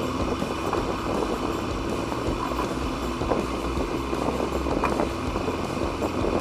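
Steady rumbling background noise with a few faint small clicks.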